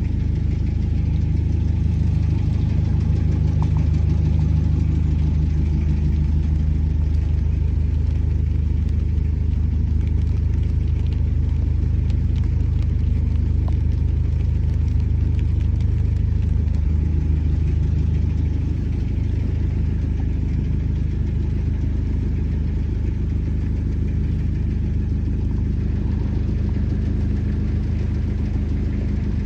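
Narrowboat's diesel engine running steadily at low revs, a constant low hum with a fast, even pulse.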